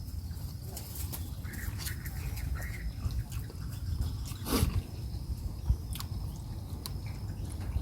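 Eating sounds: scattered light clicks and taps of a utensil and mouth noises, with one louder swish about four and a half seconds in, over a steady low rumble.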